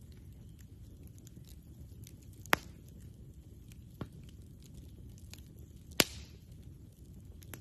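Campfire burning, with a low steady rumble under faint crackling and sharp pops of burning wood: two loud pops a few seconds apart and a softer one between them.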